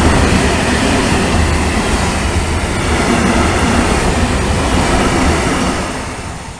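Freight train of Talbot hopper wagons rolling past, steady and loud, fading away near the end as the last wagons go by.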